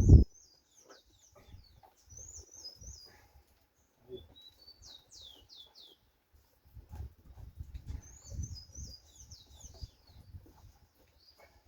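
A small bird singing in short runs of quick high chirps, repeated four times, some runs sweeping downward. A loud low rumble stops suddenly at the very start, and softer low rumbling comes back in the second half.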